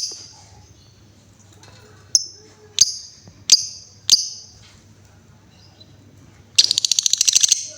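Female lovebird calling: five sharp, high single chirps spaced over the first four seconds, then near the end a fast rattling trill lasting about a second, the 'ngekek' chatter.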